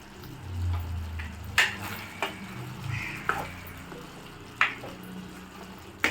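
Chicken curry simmering in a kadai with a soft sizzle, while a cooking spoon knocks against the pan about five times. A brief low hum sounds in the first second or so.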